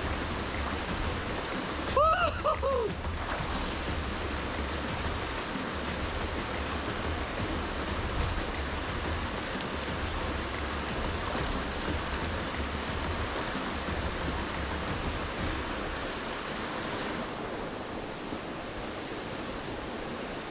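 Steady rush of flowing and falling water from a mountain stream and waterfall, with an uneven low rumble underneath. About two seconds in, a brief pitched sound cuts through it.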